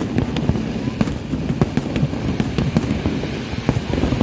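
Fireworks display: a dense, continuous run of cracks and bangs from exploding shells over a low, steady rumble.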